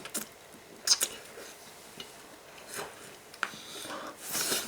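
Bubble gum being worked in a mouth: a few short wet clicks and smacks spaced about a second apart, then a breathy rush of air near the end as air is sucked in through the gum.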